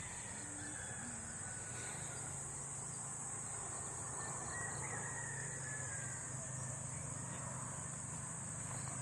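Steady, high-pitched insect chirring, crickets or similar, with a faint low hum underneath.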